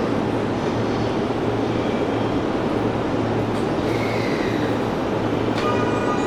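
Electric commuter train running along the line, heard from inside the carriage as a steady rumble of wheels on rail. A high whine sets in near the end.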